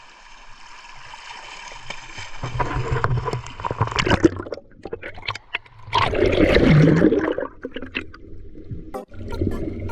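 Water sloshing and gurgling in irregular surges, loudest in a rush about six seconds in.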